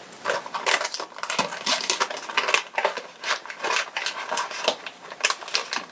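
Fabric being handled and rubbed together, a fast, irregular run of crisp crinkles and crackles.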